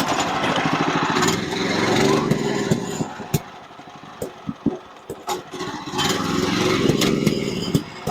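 Small gasoline engine of a portable sawmill running, loud at first, dropping back about three seconds in and coming up again near the end, with scattered clicks and knocks.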